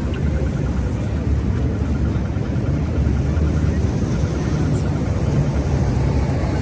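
Busy city street noise: a steady low rumble of passing traffic.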